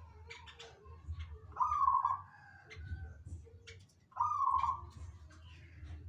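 Birds calling: short high chirps throughout, with two louder drawn-out calls, each rising quickly and then held, about one and a half and four seconds in.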